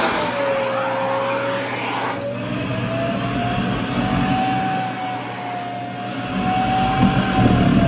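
Vacuum cleaner running with a steady whine and airflow noise. The pitch sags just after the start and rises again about two seconds in, as the skirt fabric drawn into the nozzle changes the airflow. There is a heavier low rumble near the end.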